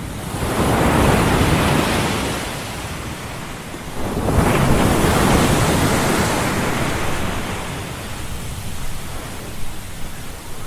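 Ocean waves washing onto a shore as a steady rushing noise. Two swells rise and fall, about four seconds apart.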